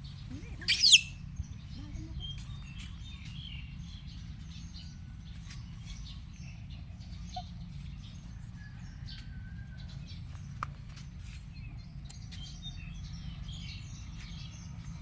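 One loud, high-pitched squealing call about a second in, followed by scattered faint high chirps over a steady low hum.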